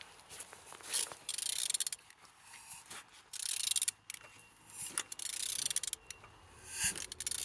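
Engine being turned over by hand with a ratchet wrench: about four bursts of rapid ratchet clicking, each about a second long, as the crankshaft is cranked round. The engine turns freely, which is the sign it is not seized.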